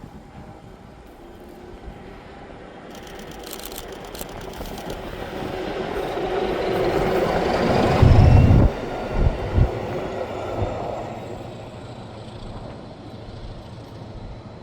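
A train passing at speed: its noise builds to a peak about eight seconds in, with a whine that rises and then falls away, and a short, heavy low blast on the microphone as it goes by.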